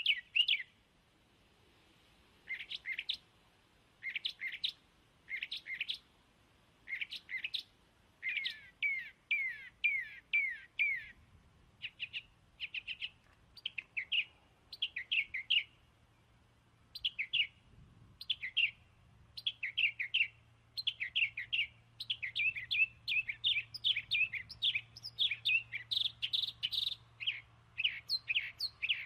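Birds chirping: many short, high chirps in quick runs, growing denser toward the end.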